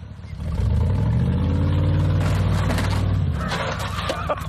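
A vehicle engine running hard for about three seconds at a fairly steady pitch, then fading into rougher noise near the end.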